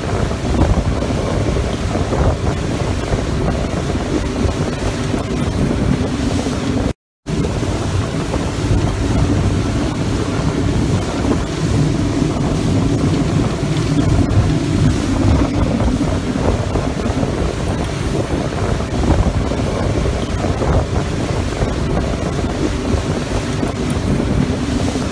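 Wind buffeting the microphone aboard a speedboat under way, over the boat's outboard motor and water rushing past the hull. The sound cuts out for a moment about seven seconds in.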